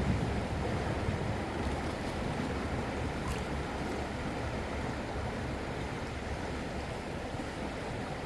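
Steady rushing of flowing river water, with a low rumble of wind on the microphone.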